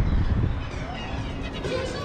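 Wind rumbling on the microphone of a handheld camera during a bike ride. Faint higher sounds come in over the second half.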